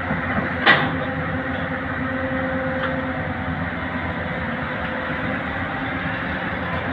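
Heavy diesel engine running steadily, with a sharp metallic knock about a second in and a fainter one later.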